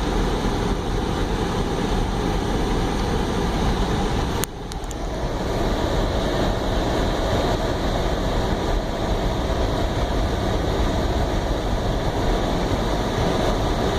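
Steady road and engine noise inside a moving car's cabin. A sharp click comes about four and a half seconds in, where the noise briefly dips.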